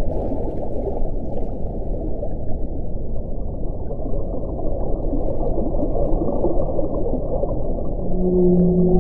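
Wind blowing steadily, a dense low rumble with no gusts. A few hollow, moaning tones come in near the end.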